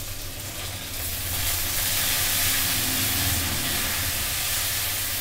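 Chopped tomatoes sizzling in hot oil with fried onions and spices in a kadhai, stirred with a spatula. The sizzle grows louder about a second in.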